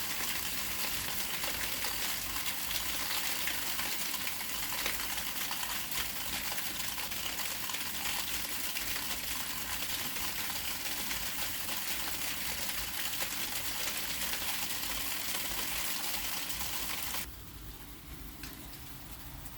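Sleet falling, a steady hiss with many fine ticks of ice pellets. About 17 seconds in, the sound suddenly drops to a quieter, duller hiss.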